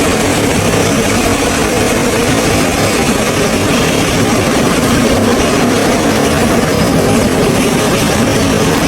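Heavy machinery running with a steady, unbroken noisy drone.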